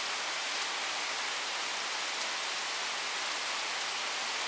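Steady rain from a thunderstorm, an even hiss that holds at one level.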